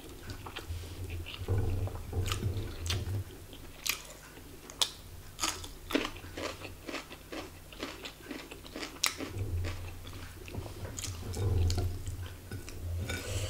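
Close-miked chewing of a hand-eaten mouthful of yellow rice and rendang: wet mouth sounds with many sharp, irregular crunchy clicks.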